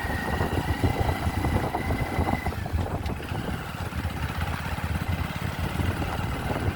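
Motorcycle running on the move, a steady low rumble, with a thin high steady tone over it for the first two seconds or so.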